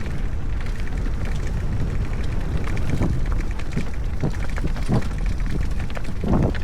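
Heavy wind buffeting on the microphone as a mountain bike rides over a rocky trail, with scattered knocks and rattles from the bike, most of them a few seconds in and again near the end.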